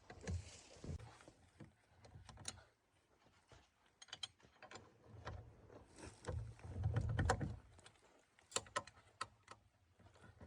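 Irregular clicks, knocks and clinks of hand work with tools and parts, with a heavier cluster of knocks and low thuds about seven seconds in.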